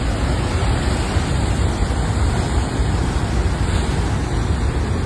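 Heavy storm surf crashing with strong wind buffeting the microphone, a steady loud rush with deep rumble.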